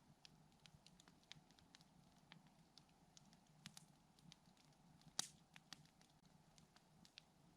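Campfire crackling faintly: scattered small pops and snaps, with one louder pop about five seconds in.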